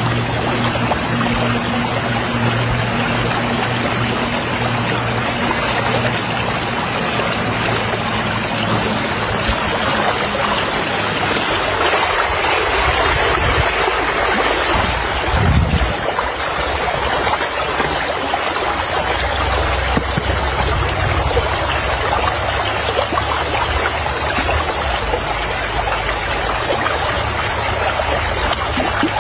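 Water running and splashing in a steady rush, with a faint low hum during the first part.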